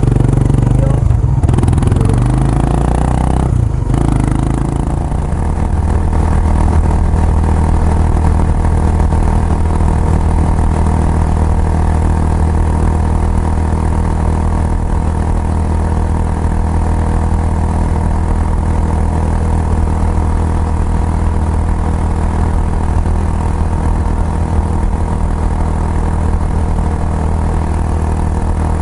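Kawasaki Estrella's air-cooled single-cylinder engine, fitted with a Yamato aftermarket muffler, running. Its note changes over the first few seconds, with two brief breaks, then holds steady.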